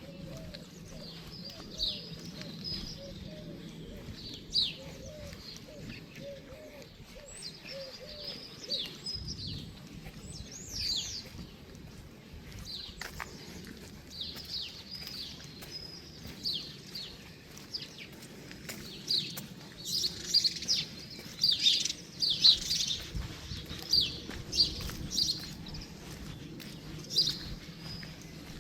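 Songbirds chirping and singing, with many short high chirps that grow thicker and louder in the second half.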